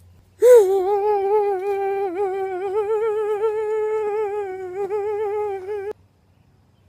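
A single voice humming one long held note with a slight waver, lasting about five seconds and cutting off abruptly.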